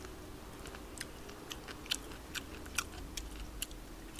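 A person chewing spicy tteokbokki close to the microphone: a string of soft, irregular wet mouth clicks.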